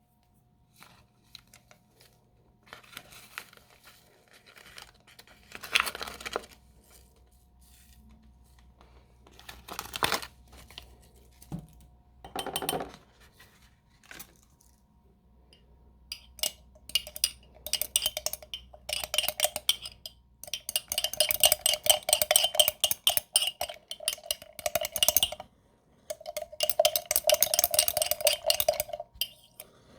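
Kitchen clatter: a few separate knocks and clinks, then in the second half a spoon stirring fast in a glass, clinking against its side in long runs of rapid taps.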